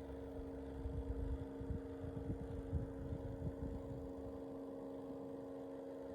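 Orteen 9-inch portable rechargeable fan running with a steady motor hum made of a few fixed tones, with irregular low rumbles between about one and four seconds in.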